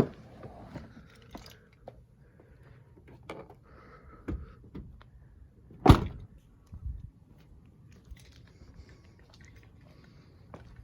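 Quiet handling and movement sounds with a few small knocks, and one loud, sharp thump about six seconds in: a door of the Toyota Tundra pickup being shut.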